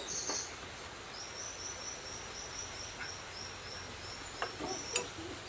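A small bird calling: a run of short, high chirps repeated evenly at about four a second over a steady outdoor hiss, with a couple of faint knocks near the end.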